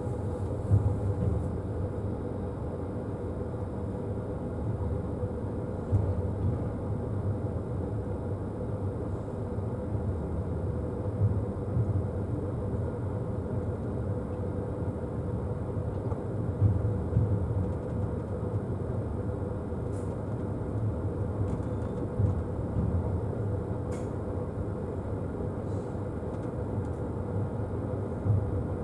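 Passenger train carriage running on the rails, heard from inside the car: a steady low rumble of wheels and running gear, with louder knocks every five seconds or so.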